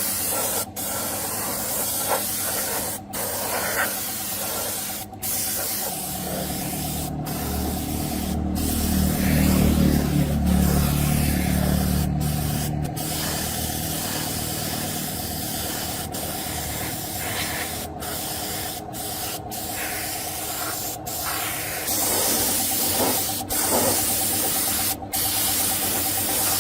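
A steady high-pressure spray hissing, chopped into short stretches by quick cuts, with a low motor hum swelling in for several seconds near the start.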